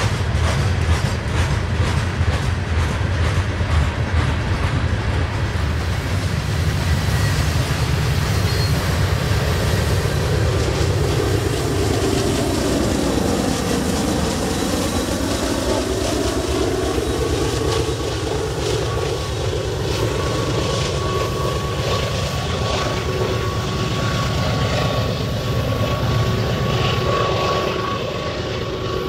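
Loaded coal train rolling past at close range: a steady rumble of hopper cars, with wheels clicking over rail joints in the first few seconds. About halfway through a Union Pacific diesel locomotive in the train passes, its engine note dropping in pitch as it goes by.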